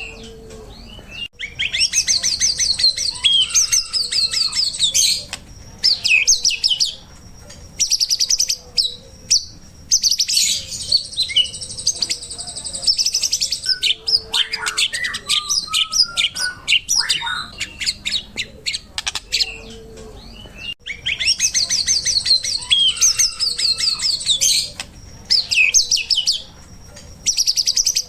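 White-rumped shama (murai batu) singing a fast, varied song of rapid trills, chattering notes and clear whistles, in bursts of a few seconds with short pauses between them.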